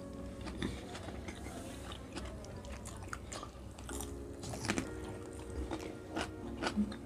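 Close-up crunching and chewing of fresh cucumber spears and fried lumpiang shanghai, with a series of sharp crunches that grow louder near the end.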